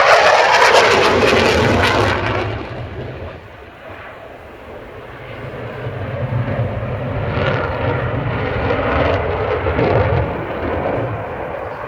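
F-16 fighter jet flying past in a display: its engine noise is loudest at the start and fades away within about three seconds. A second pass then builds from about six seconds in, peaks near ten seconds and tapers off near the end.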